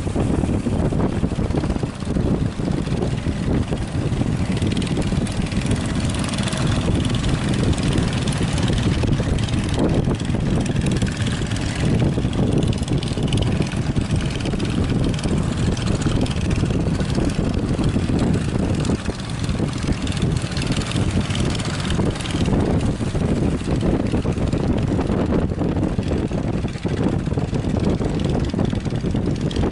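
Fishing boat engine running steadily at a constant note throughout.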